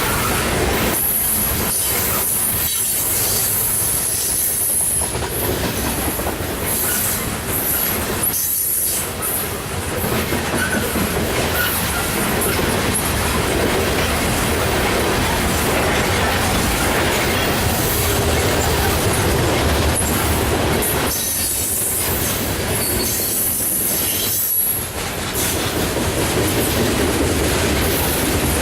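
Loaded coal train rolling past, its steel wheels clattering over the rail joints with a high-pitched wheel squeal, strongest in the first few seconds.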